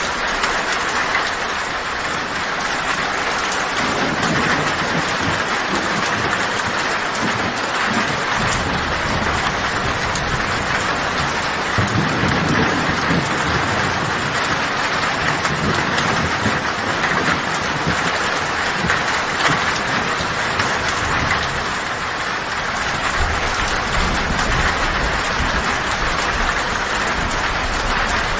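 Heavy rain drumming steadily on a tin roof, with low thunder rumbling up and fading several times: about 4 seconds in, again around 12 seconds, and building near the end.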